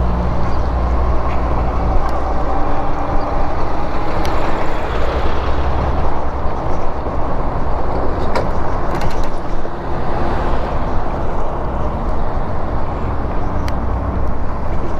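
Steady wind and road noise while riding an e-bike along the street, strongest in the low rumble, with a few faint clicks.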